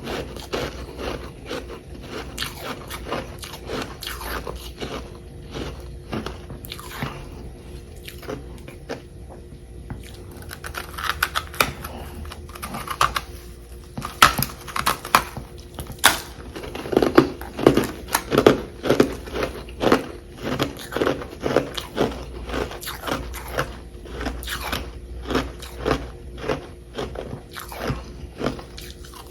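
Close-miked biting and chewing of chunks of frost made in a humidifier: a steady run of crisp, irregular crunches, sparser for a while in the middle and then coming fast and dense through the second half.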